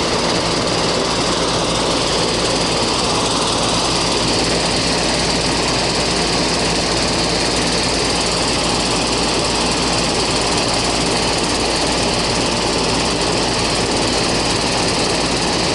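Goodman central air conditioner's outdoor condensing unit running steadily up close: a constant low hum from the compressor under the even rush of the condenser fan.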